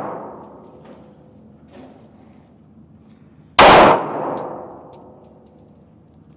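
A single handgun shot about three and a half seconds in, sudden and very loud, with a long fading tail. The tail of the previous shot dies away at the start.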